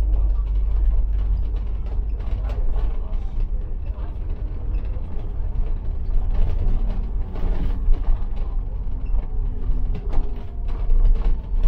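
Interior of a moving city bus: steady low engine and road rumble, with the body panels and fittings creaking and rattling irregularly over it.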